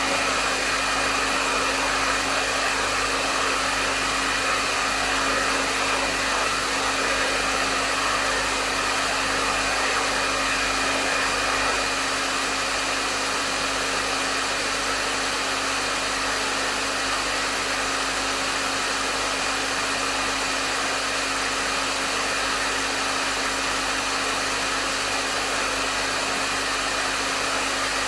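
Hair dryer running steadily: an even rush of airflow with a low motor hum and a faint high whine underneath.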